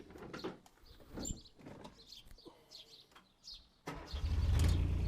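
Birds chirping quietly, then about four seconds in a Takeuchi mini excavator's diesel engine starts and runs steadily and loudly.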